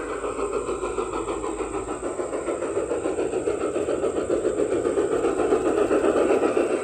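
Garden-railway model train running along the track, growing steadily louder as it approaches.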